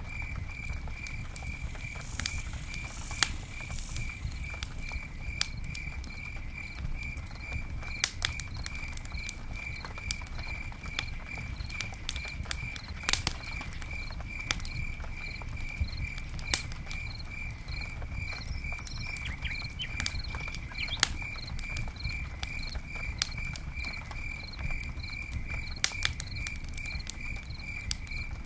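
Campfire burning, with irregular sharp crackles and pops over a low rumble of the flames. A cricket chirps steadily throughout, about four high pulses a second.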